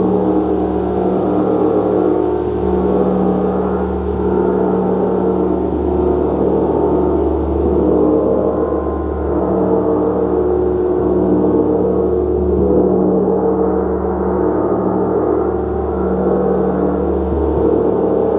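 Gong ringing continuously in a dense, sustained wash of many overlapping tones, with no single strikes standing out. A deep low hum swells and fades slowly beneath it.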